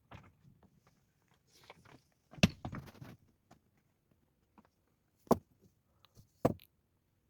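Three sharp knocks among light rustling handling noises, the first and loudest about two and a half seconds in and the other two near the end.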